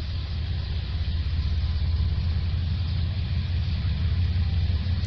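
Steady low rumble of a running vehicle, growing a little louder over the first two seconds.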